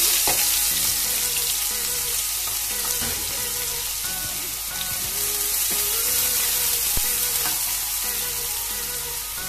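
Chopped onions sizzling as they fry in hot mustard oil with cumin seeds in a kadhai: a steady hiss, with a spatula stirring the pan near the end.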